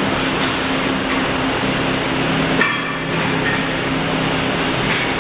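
Arc welding in a workshop: a steady crackling hiss with a welding machine's hum beneath it. Sharp metal strikes land every second or so; the loudest, about two and a half seconds in, rings.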